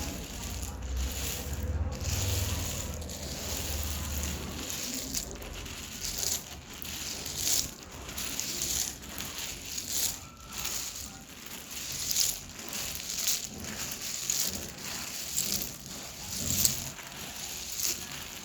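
Dry edible clay being crushed into crumbles: a string of crisp crunches, irregular, about one or two a second.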